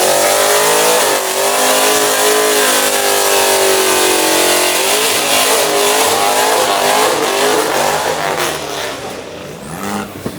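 Car engine running at high revs, its pitch sliding slowly down over the first few seconds, then rising and falling with the throttle, and fading about eight seconds in.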